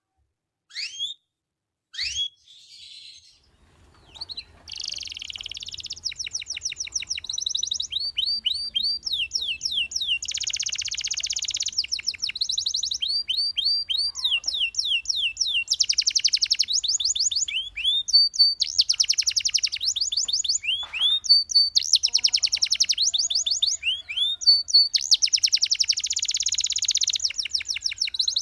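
Domestic canary singing: a few separate chirps at first, then from about four seconds in a continuous high-pitched song of fast trills. Each trill is a rapid run of one repeated note, and the song switches to a new trill every second or two.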